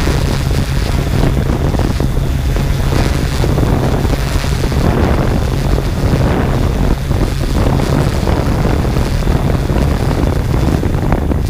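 Quadcopter drone in flight, its motors and propellers giving a steady low hum, with heavy wind noise buffeting the microphone.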